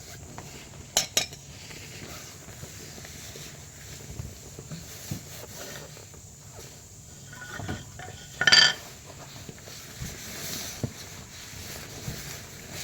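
Metal clinks and knocks from work on a car's exhaust and its hangers, with a sharp double click about a second in and one louder ringing metallic clank about eight and a half seconds in.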